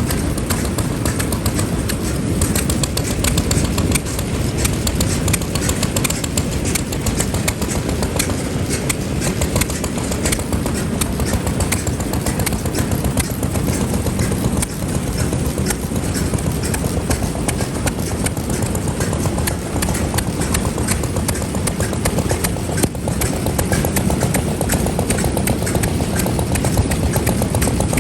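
Vintage Japanese stationary farm engines running at an engine meet, a steady rapid chatter of firing strokes with a heavy low rumble.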